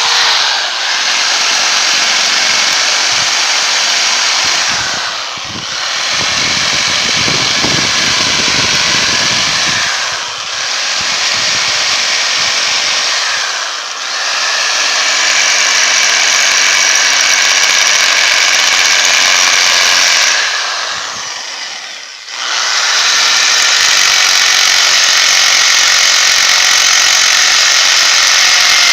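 Electric drill running continuously against the rebar truss of a concrete-filled U-block beam, shaking the wet concrete to drive out trapped air. The motor slows and picks back up four times, the longest dip about three quarters of the way through.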